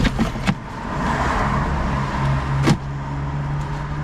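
Things being packed into a storage box by hand: a few sharp knocks, one near the start, one about half a second in and one near three seconds, with rustling in between, over a steady low hum.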